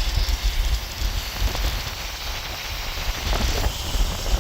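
Wind buffeting the microphone in gusts, over a steady hiss of rain.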